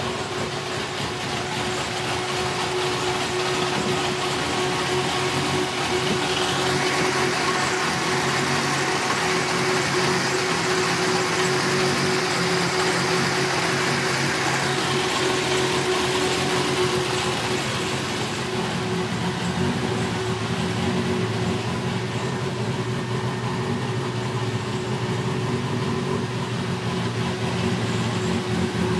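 Nissan S13 drift car's engine running at a steady idle on its first startup.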